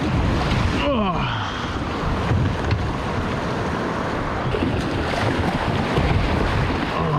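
River rapids rushing around a kayak: a dense, steady wash of white water, with wind buffeting the microphone.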